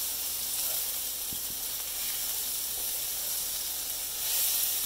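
Diced sweet potato, vegetables and plant-based sausage slices frying in oil in a nonstick pan: a steady, high sizzle that swells a little about four seconds in.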